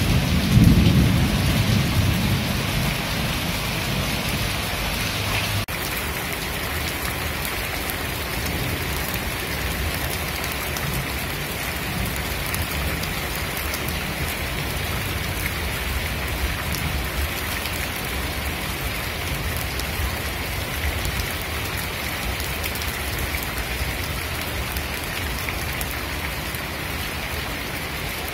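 Steady rain falling on a wet tiled rooftop terrace, with a low rumble of thunder in the first couple of seconds that dies away.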